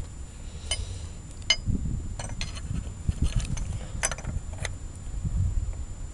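Small metal parts and hand tools clinking and clicking as they are handled: about half a dozen sharp separate clicks over a low rumble.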